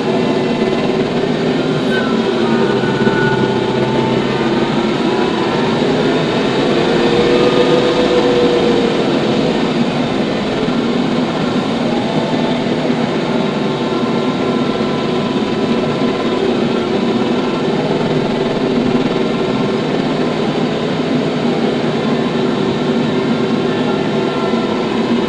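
TYM T574 tractor running steadily, a continuous mechanical drone with a few gently wavering pitches over it.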